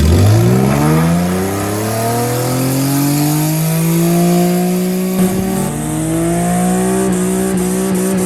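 A car engine accelerating hard, its pitch climbing steadily for about five seconds. After a short break about five seconds in, like a gear change, it holds a high, nearly steady pitch at full throttle.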